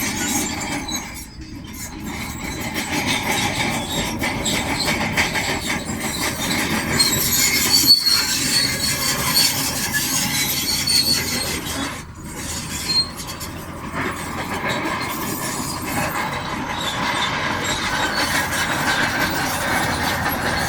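Shantui DH17C2 crawler bulldozer working stone: a steady noise of engine and tracks, with a high squeal in the middle stretch.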